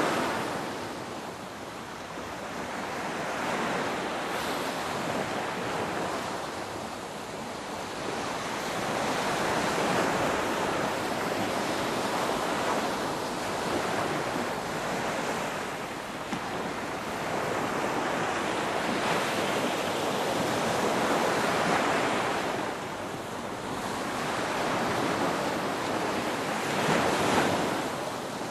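Ocean waves breaking and washing in, a steady rush of surf that swells and falls back every few seconds, with the strongest surge near the end.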